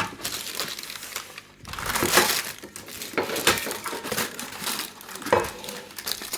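Packaging rustling and crinkling as a campfire frying pan is handled, with light knocks of the metal pan.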